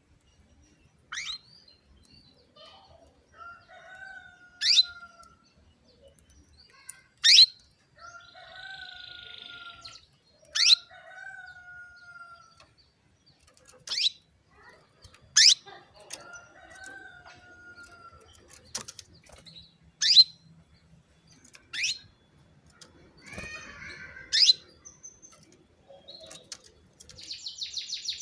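Female canary calling: sharp, high call notes sweeping downward, about ten of them a few seconds apart, with softer, lower whistled notes in between. A fast, high trill starts near the end.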